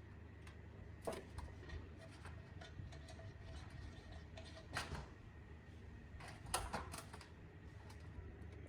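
Scattered light clicks and taps, bunched most thickly about two-thirds of the way through, over a low steady hum.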